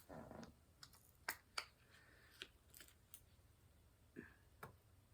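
Faint, scattered light clicks and taps, about eight of them: a diamond-painting pen tapping drills onto the canvas.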